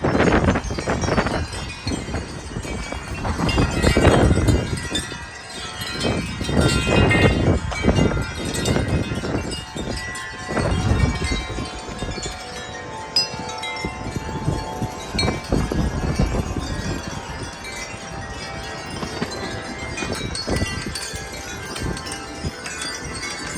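Wind chimes ringing and clanging nonstop in strong gusty wind. Heavy gusts buffet the microphone in surges during the first half, then ease while the chimes keep ringing.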